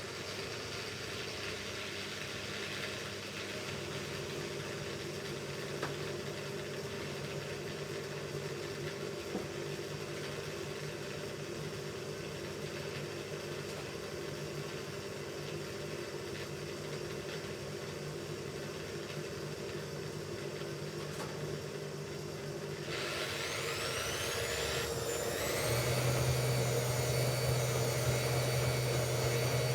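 Hoover Ecologic Computer Washer 1300 washing machine motor turning the drum with a steady hum. About 23 seconds in, the motor winds up with a rising whine as the drum accelerates into a spin, then holds a louder, steady higher-speed spin.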